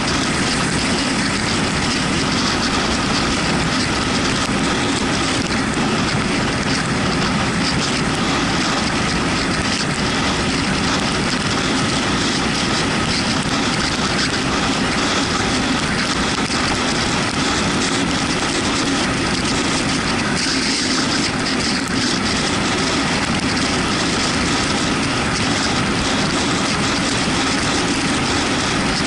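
Steady wind rush and road noise while riding a Yamaha MT-125 motorcycle, with the drone of its single-cylinder engine and tyres on a wet road, unchanging throughout.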